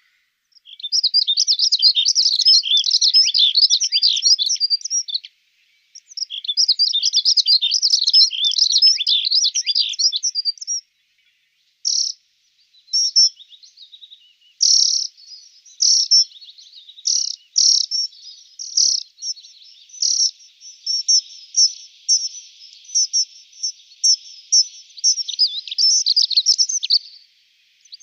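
Dunnock singing: two long, fast, high-pitched warbling phrases, then a run of short separate notes, and a denser warble again near the end.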